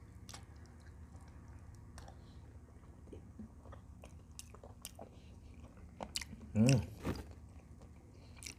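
Close-miked chewing of soft boiled camel tendon, with small wet mouth clicks throughout. A brief hum-like voice sound comes about two-thirds of the way through and is the loudest moment.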